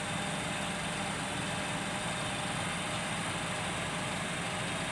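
Isuzu crane truck's engine running steadily, a constant low drone with no change in speed.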